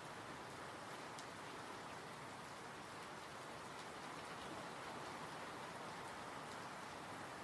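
Steady rain falling: an even hiss of many drops, with an occasional faint single drop tick standing out.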